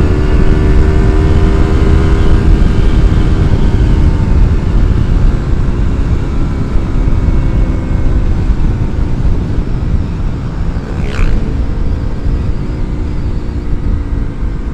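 Yamaha MT-25's parallel-twin engine through an R9 aftermarket exhaust, running at steady revs while riding. After about four seconds it eases off and gets gradually quieter.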